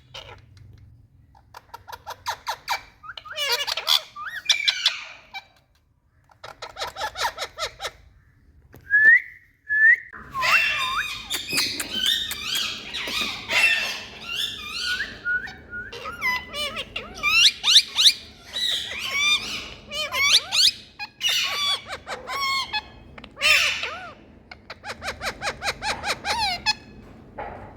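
Indian ringneck parrot calling, with rapid chattering trills at first and a pair of short rising whistles, then from about a third of the way in a busy stretch of overlapping whistles, squawks and chatter.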